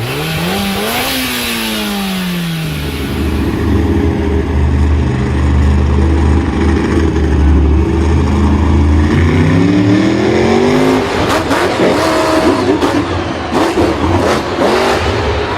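A vehicle engine revving: it climbs quickly at the start and falls back, holds a steady low drone for several seconds, revs up again about two-thirds of the way in, then runs rough and noisy.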